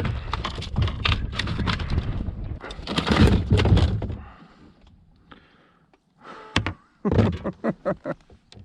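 Handling noise aboard a fishing kayak as a just-landed striped bass and tackle are handled: dense clattering and knocking for the first four seconds, then a run of sharp, separate knocks near the end.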